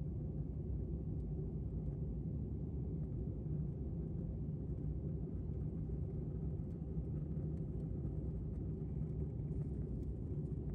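A vehicle engine running steadily, a low, even drone that does not change.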